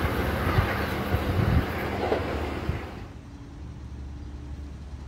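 Train running noise with a couple of sharp knocks, which cuts off about three seconds in. After that comes a quieter steady hum of road traffic.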